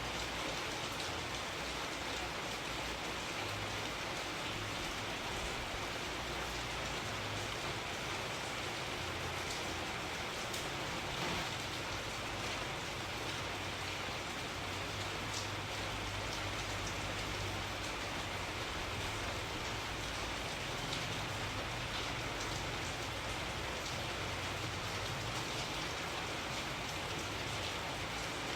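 Steady rainfall, a constant hiss of rain with scattered faint drop ticks.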